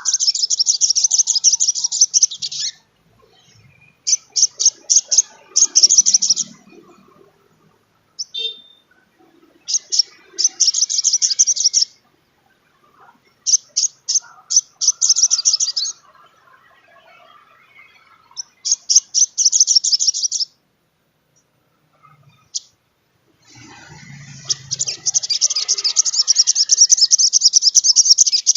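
Sunbird (sogon trotol) singing in bursts of rapid, high-pitched trilled notes, each burst two to three seconds long, repeated every few seconds, with a longer burst near the end.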